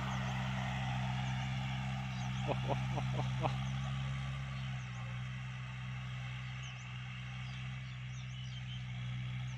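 Kubota L3218 tractor's diesel engine running steadily while driving a 183 cm rotary tiller through dry soil, easing off slightly in the second half. A few quick chirps come about two and a half to three and a half seconds in.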